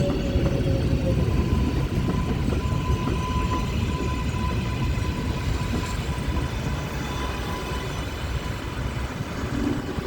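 R142-series subway train running past on the track, a heavy rumble with a steady high whine, fading gradually toward the end.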